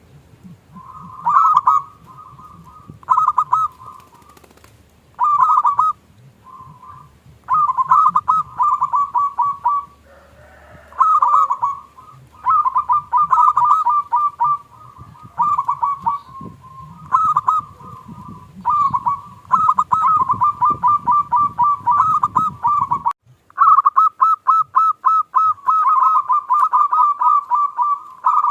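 Zebra doves (perkutut) cooing in repeated phrases of rapid, staccato notes, each phrase a second or two long with short pauses between. The low background rumble drops out suddenly about 23 seconds in, leaving the coos alone.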